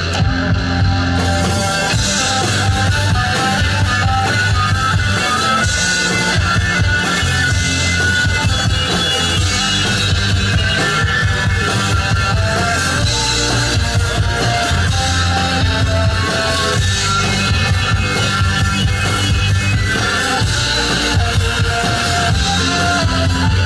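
Loud rock music from a one-man band: drums and guitar played together, running without a break.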